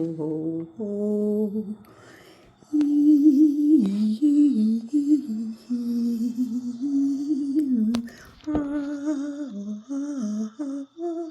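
A woman humming a slow, wandering melody without words, holding notes and sliding between them, with a short pause about two seconds in.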